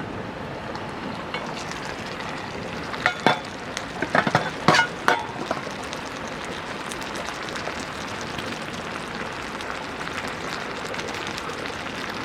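Food frying in a pan over a low campfire heat, a steady sizzle, with a few sharp clinks and knocks, like a utensil against the pan, about three to five seconds in.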